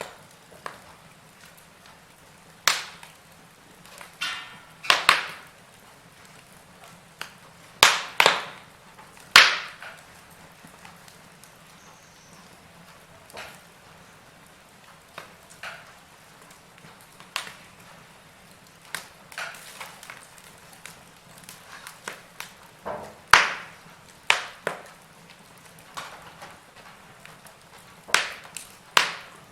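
Wood fire burning in a fireplace: irregular sharp crackles and pops of the logs over a low, steady hiss of flame.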